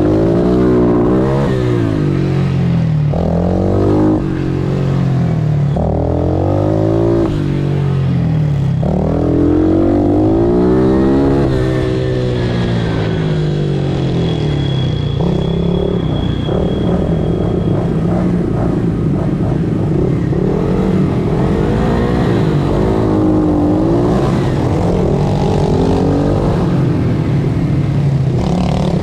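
Pit bike's single-cylinder engine being ridden hard, revving up and falling back again and again as the rider accelerates and shifts through the gears.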